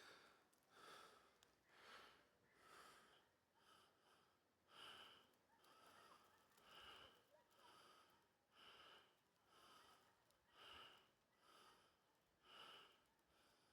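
Faint, steady breathing, about one breath a second.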